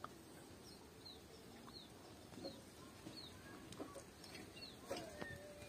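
Faint bird calls: a short falling chirp repeated a little more than once a second over a quiet outdoor background, with a few soft clicks near the end.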